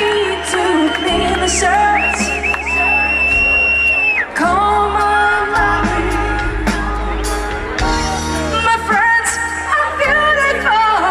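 Live pop-rock band playing, with a long held, bending lead melody over steady bass notes and cymbal hits.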